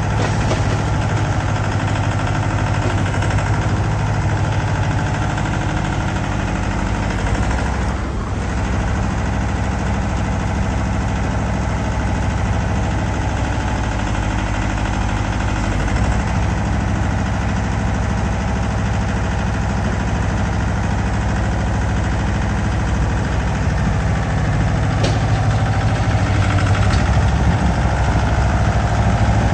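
Mahindra tractor's diesel engine running steadily, getting a little louder in the last few seconds.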